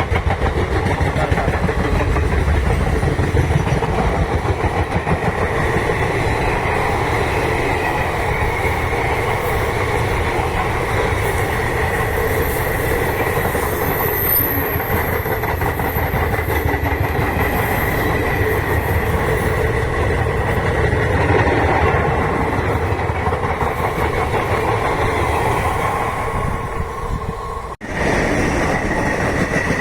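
Indian Railways passenger train running past, a steady loud rumble of coach wheels on the rails that drops out for an instant near the end.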